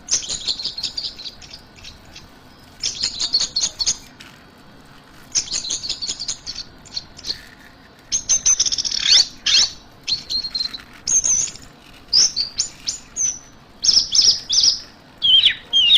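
Orange-headed thrush singing in rapid, varied phrases of high chirping notes, about a second or two each, separated by short pauses, with a couple of sharply falling whistles.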